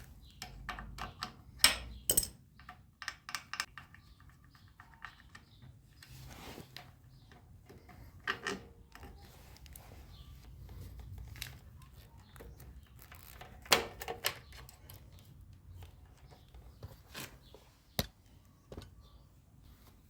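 Irregular clicks, knocks and light metallic clinks of hand tools and metal parts being handled, some with a short ringing tone.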